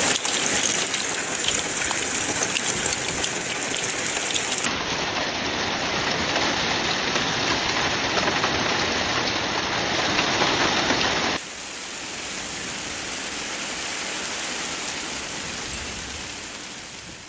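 Heavy rain pouring down steadily. The sound changes abruptly twice, about five seconds in and again about eleven seconds in, where it becomes quieter, and it fades out at the end.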